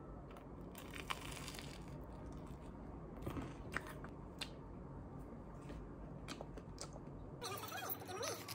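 Someone biting and chewing a crisp croffle (croissant waffle), with a few short crunches about a second in and again around three to four seconds in.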